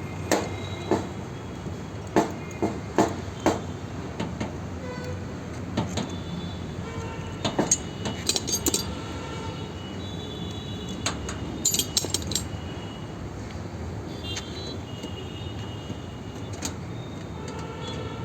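Metal hand tools clicking and clinking against copper pipe and fittings during AC pipe flaring: irregular sharp taps, some with a brief metallic ring, coming in small clusters over steady low background noise.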